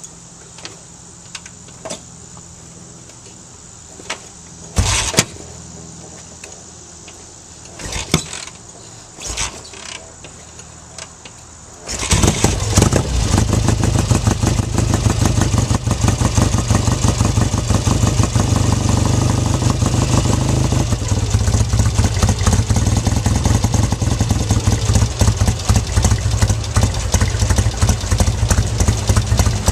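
Cold 1966 Triumph Bonneville 650 parallel-twin being kick-started: a few short thumps, then the engine fires on a kick about twelve seconds in and keeps running, idling low as it does from cold.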